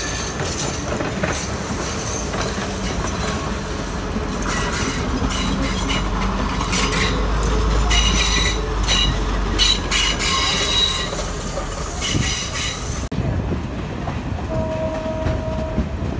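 Passenger train carriages rolling past at close range, their steel wheels clattering over the rails with high wheel squeals in the middle. After a sudden change the sound is quieter, with a brief steady tone near the end.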